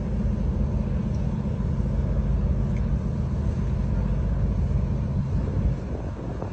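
An engine running steadily at an even speed, a low drone with a rushing haze over it, easing slightly near the end.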